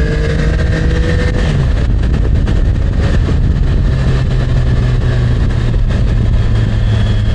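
Yamaha MT-09 three-cylinder engine running at a steady cruise under a constant rush of wind and road noise. Its note drops about a second and a half in, then holds steady.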